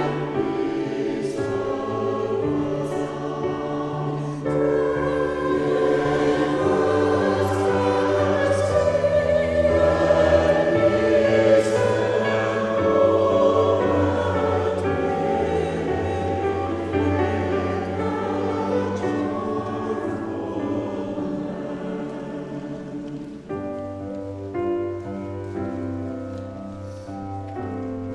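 A choir singing a sacred piece with accompaniment. It swells to its loudest around the middle, then thins out after about 23 seconds into quieter, separate notes.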